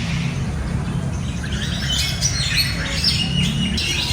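Birds chirping and squawking, a flurry of short high calls that thickens about halfway through, over a low steady rumble.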